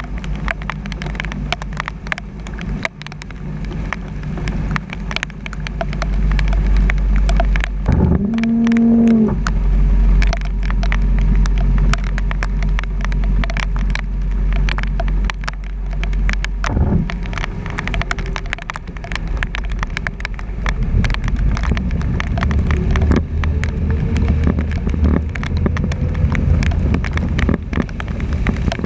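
Truck driving through flooded streets in heavy rain, heard from its front bumper: a steady low rumble of the truck and water, with many small ticks of rain and spray hitting the camera housing. About eight seconds in a brief pitched tone rises, holds for a second and drops away.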